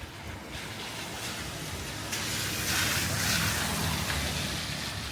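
A vehicle passing on a wet road: tyre hiss swells, is loudest about three seconds in, then fades, over a low rumble.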